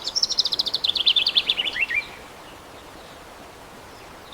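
A bird's fast run of chirps, about ten a second, falling in pitch over roughly two seconds and then stopping, leaving a faint steady hiss.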